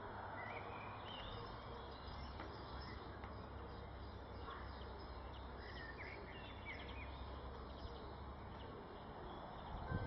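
Short high bird chirps, scattered and faint, in small clusters, over a steady low background rumble.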